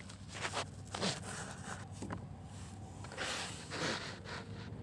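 A handful of short, irregular scraping and rustling strokes over a faint steady low hum.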